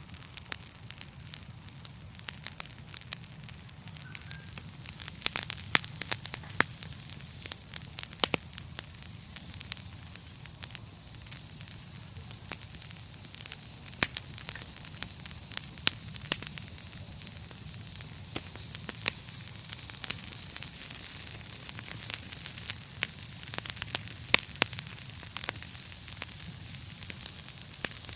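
Fire in a fireplace crackling, with frequent irregular sharp pops and snaps over a steady hiss and a low steady rumble.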